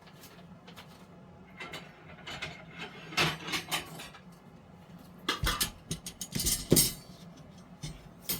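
Parts of a tiered tray stand being handled and fitted together: scattered clinks and knocks, busiest and loudest in the second half.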